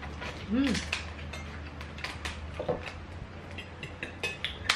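Close-miked chewing of seafood dipped in vinegar, with many small crisp clicks and crunches from the food in the mouth. There is a short hummed "mm" about half a second in.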